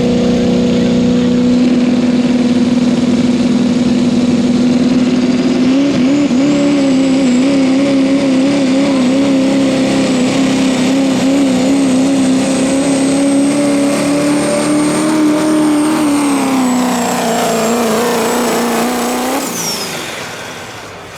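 Diesel pickup in the 2.6 turbo pulling class running at full throttle under load, with a high steady whine over a wavering engine note. About sixteen seconds in the engine backs off, and the sound falls away near the end.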